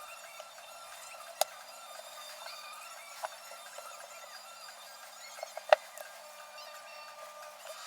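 A few sharp clicks: one about a second and a half in, a softer one near three seconds, and a quick cluster of three near six seconds, the last the loudest. Faint steady tones sound underneath.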